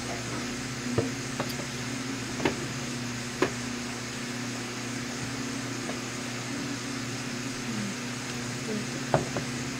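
Steady machine hum, with a few sharp clicks and taps about one, two and a half, three and a half and nine seconds in.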